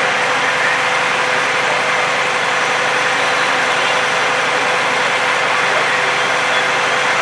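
An engine running steadily, a continuous drone with a constant hum that does not change.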